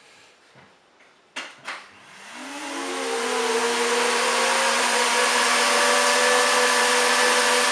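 Vacuum cleaner switched on with two clicks, its motor spinning up with a rising whine and then running steadily. It draws air through a homemade cardboard double reed, and a steady buzzing tone sounds over the motor noise.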